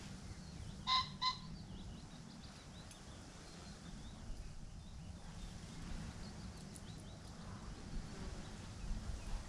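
A bird gives two short, loud calls about a second in, a third of a second apart. Faint chirping from small birds and a low steady rumble fill the rest.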